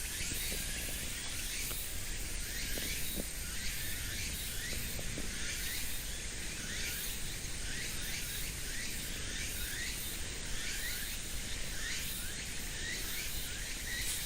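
Outdoor park ambience: a steady high buzz of insects with short rising chirps repeating about once a second, over a low background rumble.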